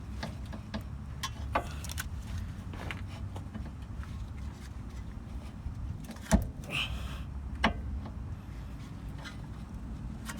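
Scattered metal clinks and knocks from tools working on the car's front suspension while the lower ball joint is pried apart, over a steady low rumble. There is one sharp knock about six seconds in, followed by a brief scrape.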